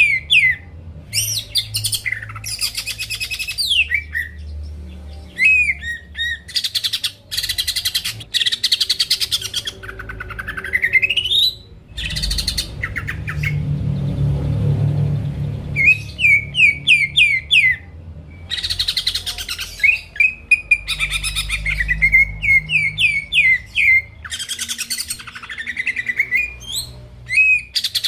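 Cucak ijo (green leafbird) in full song: runs of quick, sharp chirps alternating with dense, harsh chattering trills, and a long rising whistled glide about halfway through.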